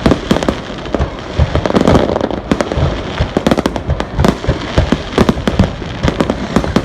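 Aerial fireworks exploding in a dense, irregular run of bangs, several a second, over a continuous rumble and crackle of overlapping bursts.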